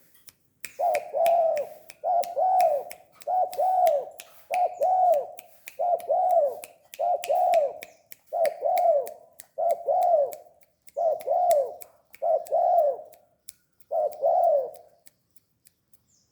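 Spotted dove (tekukur) cooing its song over and over: about eleven loud, arched coo phrases, one every second and a bit, stopping about a second before the end. Sharp clicks come alongside the coos.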